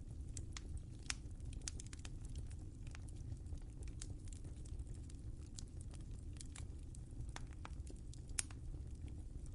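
Wood fire crackling in a fireplace: a steady low rumble of burning logs with irregular sharp pops and snaps, two louder ones about a second in and near the end.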